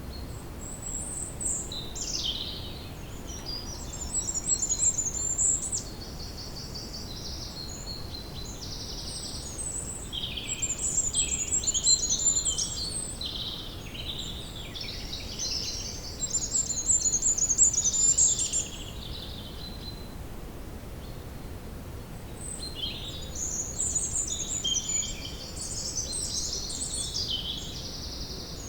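Woodland ambience: several songbirds singing in quick, overlapping high chirps and trills over a steady low background rumble, with a few seconds' lull about two-thirds of the way through.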